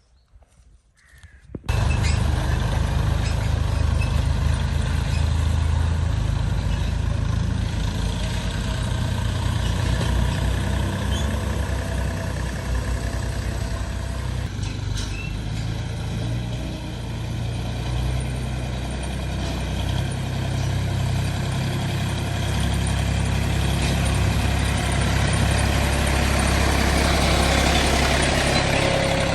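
Old tractor engine running steadily with a low, rapid chug, starting abruptly about two seconds in.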